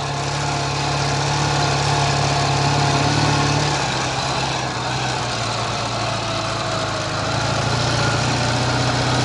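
Ural sidecar motorcycle's flat-twin engine running steadily while riding, its pitch easing slightly about four seconds in.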